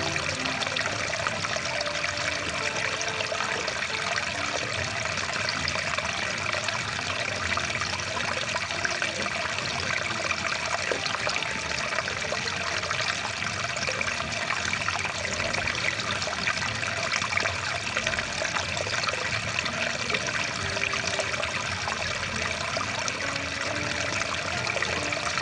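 Rushing water stream, a steady even rush of flowing water.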